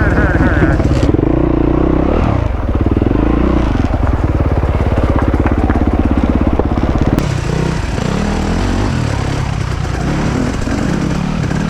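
Enduro dirt bike engine running under way, its pitch stepping up and down as the rider works the throttle and gears. The sound changes abruptly about seven seconds in.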